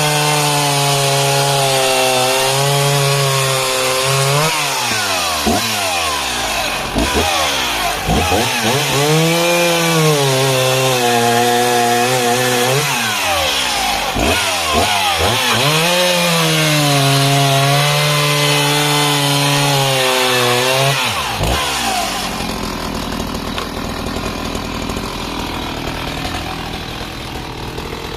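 Husqvarna 61 two-stroke chainsaw at high revs cutting discs off a spruce or pine log. The revs sag and pick up again several times, and about 22 seconds in the saw drops back to a steady idle.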